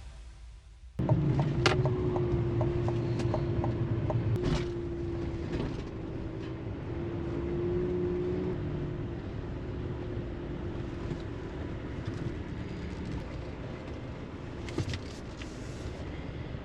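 A vehicle running steadily, starting abruptly about a second in, with a low rumble and a steady hum and a few sharp clicks.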